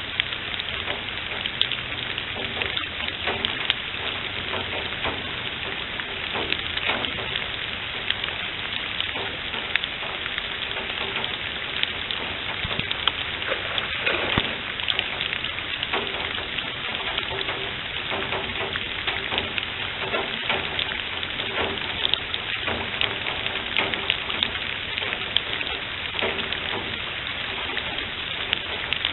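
Steady rain falling on wet leaf litter and standing water: an even hiss dotted with many sharp drop taps.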